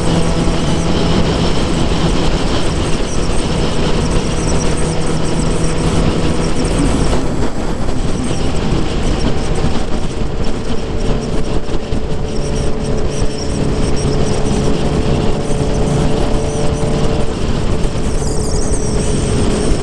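Suzuki GSX-R 750 inline-four engine and exhaust running at a steady cruise, holding a nearly constant note, over a continuous rush of wind and road noise.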